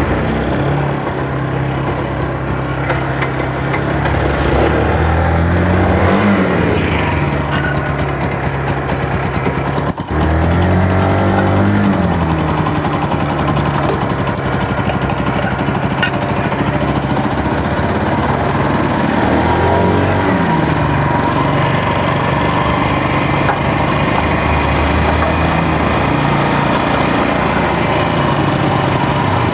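Small motorcycle engine running, with the throttle blipped a few times so that the pitch rises and falls back to idle.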